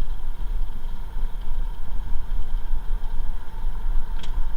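Steady low road and engine rumble inside the cabin of a V6 2008 Toyota 4Runner on the move, with a faint steady whine from the radio, which is feedback. A short tick sounds near the end.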